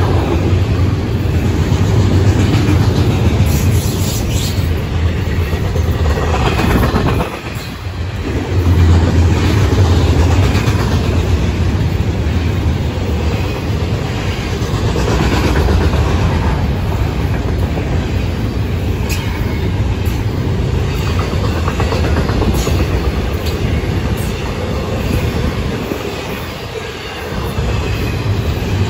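Freight train cars, including double-stack intermodal container cars, rolling past close by: a steady, loud rumble of steel wheels on rail. The sound dips briefly twice, about a quarter of the way in and near the end.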